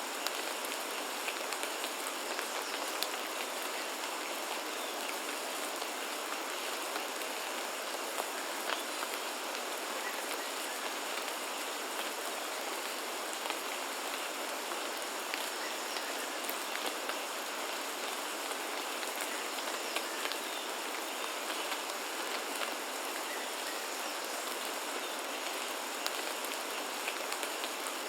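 Steady rain falling, with an even hiss and many small, scattered drop ticks.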